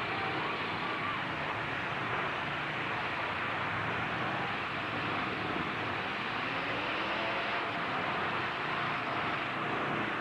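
Demolition derby truck engines running over a steady wash of noise, with revs rising and falling about two-thirds of the way through.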